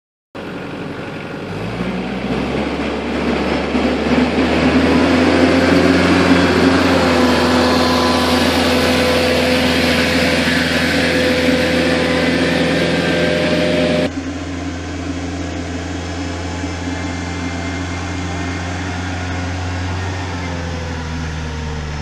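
Kubota BX2360 compact tractor's three-cylinder diesel running steadily at high revs under load, the level building over the first few seconds. About fourteen seconds in the sound abruptly turns quieter and duller, then runs on steadily.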